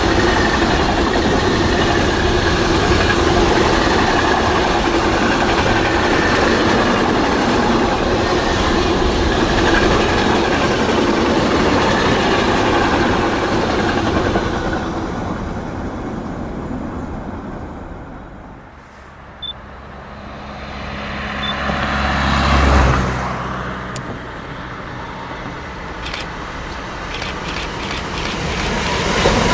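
Freight train of enclosed double-deck car-transporter wagons rolling past, a steady rumble and rattle of wheels on rail that fades away as the last wagons go by about 15 s in. Later a low rumble swells and dies, then a BR186 electric locomotive's intermodal freight train is heard approaching, its wheels starting to click over rail joints near the end.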